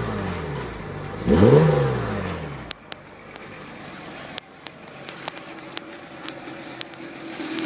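Mercedes-Benz C36 AMG's 3.6-litre straight-six engine blipped once, its pitch rising and falling, then cut off abruptly about two and a half seconds in. A scatter of sharp clicks follows over a faint steady hum.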